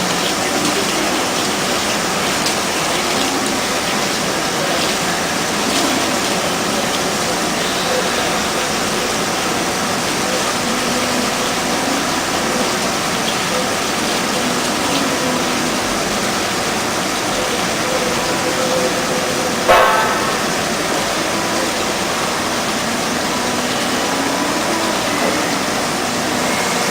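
DAMA HDC 1640 high-speed CNC drilling center running with a steady, hissing, gushing sound of machining and coolant, with one sharp knock about twenty seconds in.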